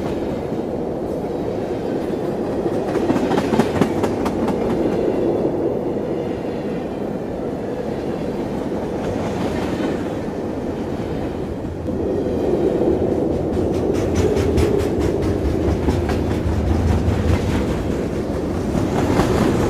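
Train running along the track: a steady rumble with runs of quick clicks from the wheels over the rails. It gets a little louder about twelve seconds in.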